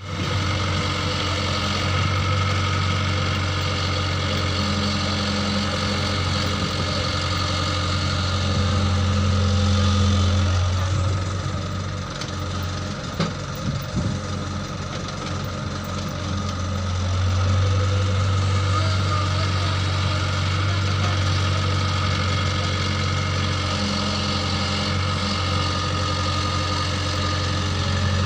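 Farm machine engine running steadily, its low hum easing for several seconds midway, with a couple of sharp knocks about halfway through.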